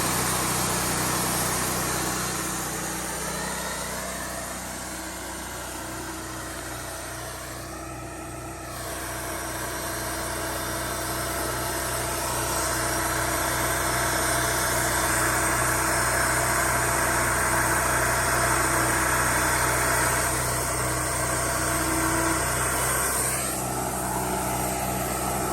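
Sawmill running while a pine log is milled: a steady engine hum whose pitch glides up a few seconds in, dips, then holds louder through the middle, with another rising glide near the end.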